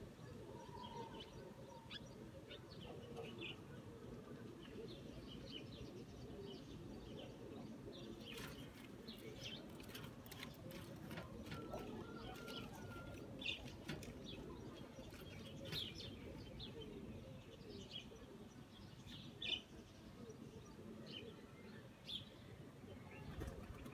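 Faint chirping of small birds, short high calls scattered through, over a low steady background hum. A run of sharp clicks or rustles comes about a third of the way in.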